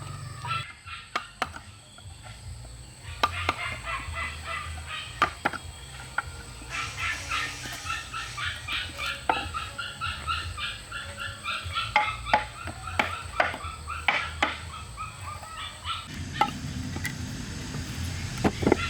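Chickens clucking and chirping, with a dense run of high chirps through the middle stretch. Sharp knocks sound in between, every second or so.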